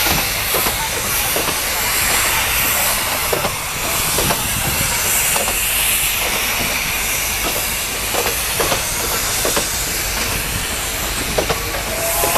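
Passenger coaches of a steam-hauled train rolling past close by: steel wheels clicking and knocking irregularly over rail joints and points, over a steady loud hiss.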